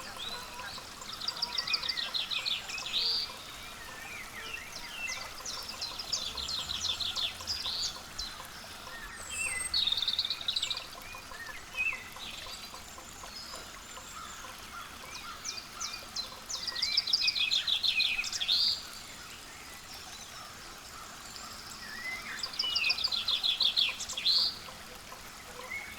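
A songbird repeats a short, rapid trilled song about five times, roughly every five seconds. Each song ends in a rising note, and other small birds chirp faintly between the songs.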